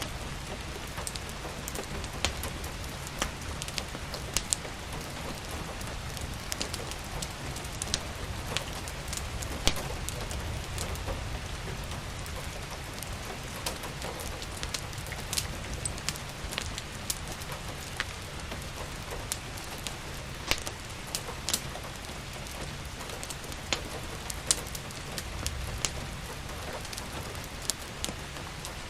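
Steady rain with frequent sharp crackles and pops from a crackling wood fire, over a low, even rumble.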